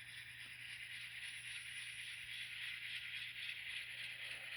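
N scale model train running around the layout: a steady, quiet running hiss and rattle from the locomotive and its cars on the track.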